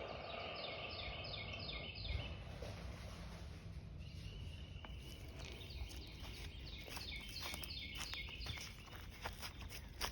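A songbird singing a fast series of repeated high notes, about five a second, twice: once at the start and again past the middle. Between them a thin steady high buzz, and scattered light clicks and rustles near the end.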